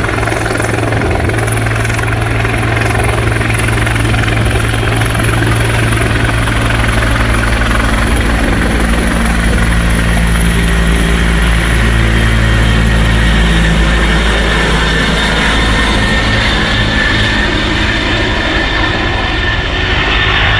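Bell 412EP twin-turbine helicopter running close by at a steady, loud level: a deep rotor rumble with a thin high turbine whine above it.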